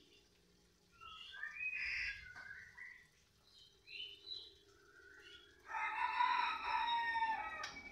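Bird calls: short chirping phrases about one to three seconds in, a few brief chirps around four seconds, then one longer, louder call of about two seconds near the end.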